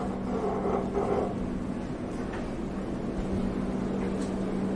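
Steady low hum from a passenger train standing at the platform, with some indistinct extra sound in the first second or so.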